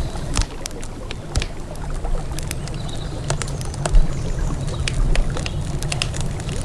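Wood campfire crackling, with irregular sharp pops and snaps several times a second, over a steady low rumble.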